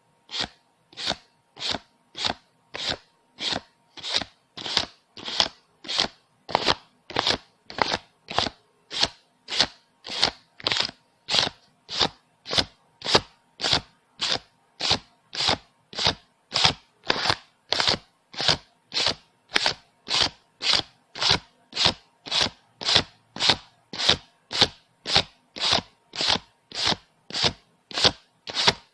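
Paper banknotes being counted by hand, one bill flicked at a time, in a steady rhythm of about two flicks a second.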